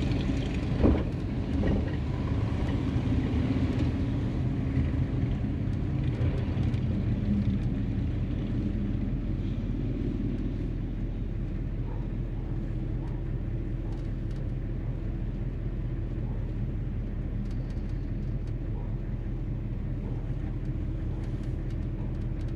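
1957 Chevrolet 210 driving, its engine and road noise heard from inside the cabin as a steady, even sound, with a brief knock about a second in.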